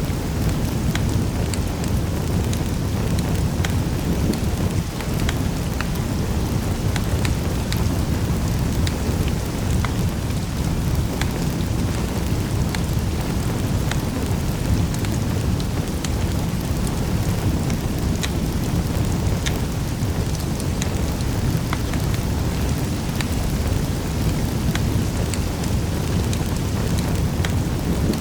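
Wood fire in a fireplace crackling, with scattered sharp pops and snaps over a steady low rumble of burning.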